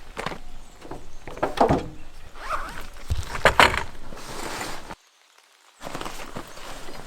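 Rustling and knocking handling sounds with a few sharp knocks, cut off abruptly about five seconds in, after which a softer hiss starts.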